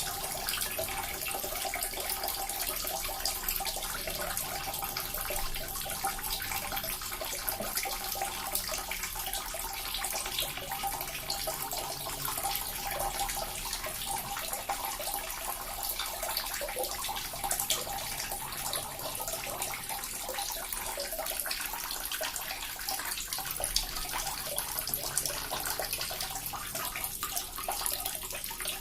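Small water fountain running steadily: a continuous splashing trickle of water falling into a basin, with many small splashes and drips.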